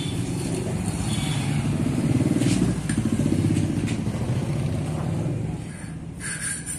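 A motorcycle engine running nearby, growing louder to its peak in the middle and then easing off.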